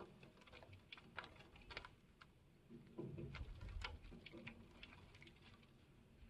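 Faint, irregular light tapping, a few sharp ticks a second, with a brief low rumble about three seconds in.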